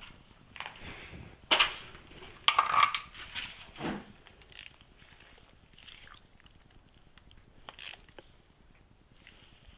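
Hand tools clicking and knocking against metal engine parts as a fitting is tightened with a small wrench: a few irregular clicks, the loudest cluster about one and a half to three seconds in, then a few scattered taps.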